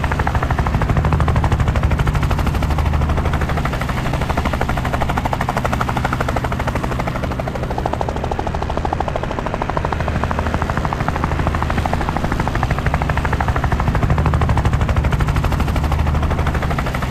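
Helicopter running, a rapid even rotor chop over a steady low engine drone.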